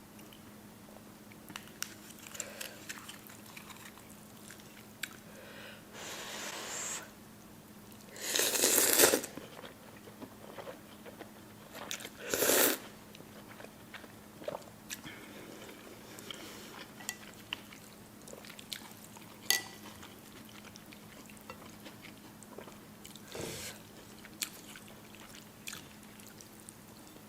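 Close-miked eating of spicy noodles with beef: chewing and biting with many small wet clicks, and two louder rushing bursts about eight and twelve seconds in.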